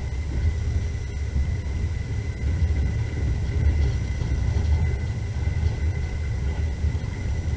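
Passenger train in motion, heard from inside the carriage: a steady low rumble.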